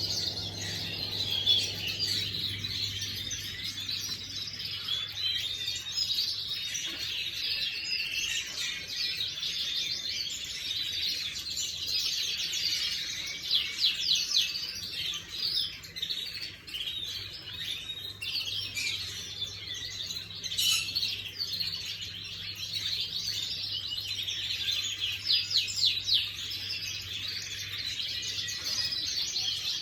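Young domestic canary singing a long, continuous warbling song, with fast rolling trills about halfway through and again near the end.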